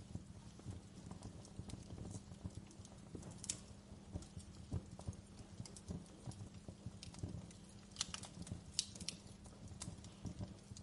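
Campfire crackling: irregular snaps and pops of burning wood, some sharper than others, over a steady low rumble of the flames.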